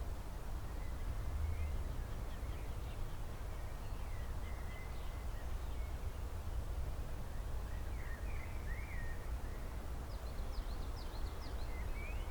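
Small songbirds chirping in short scattered calls, with a quick run of high, sharp chirps about ten seconds in, over a steady low rumble.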